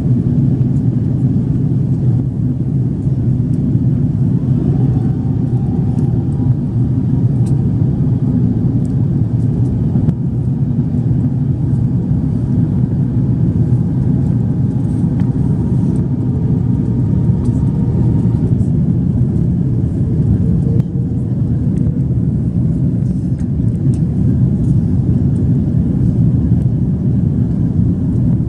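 Steady cabin rumble of an Airbus A330-300 airliner in flight, engine and airflow noise heard from inside the passenger cabin, with a couple of faint steady tones over it.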